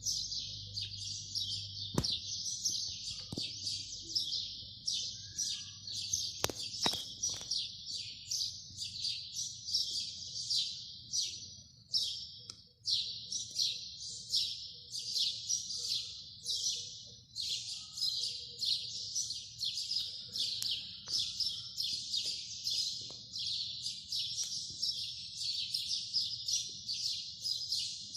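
Small songbirds chirping: a dense, continuous chorus of short, high, overlapping chirps with no pause.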